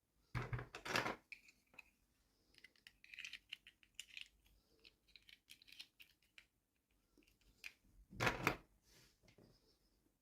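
Toy packaging being handled and opened: two loud rustling tears, one near the start and one near the end, with light clicks and crinkles between.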